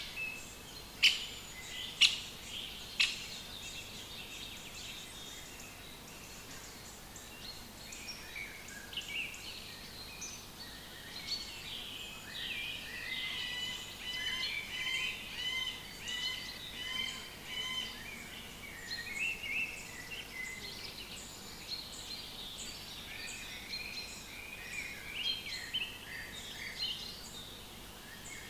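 Several forest songbirds singing and chirping at once, with short overlapping phrases, busiest in the middle, over a steady background hiss. At the start there are four sharp clicks or calls, about a second apart, which are the loudest sounds.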